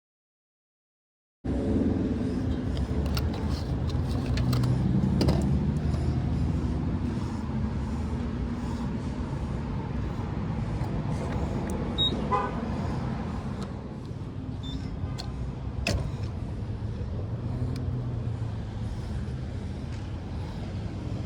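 Car on the move: steady engine and road rumble, starting after about a second and a half of silence.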